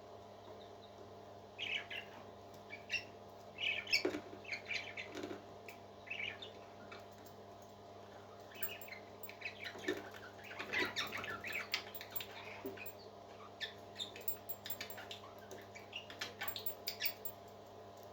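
Baby parrot chicks peeping in short, high, squeaky chirps that come in uneven bursts, over a steady low hum.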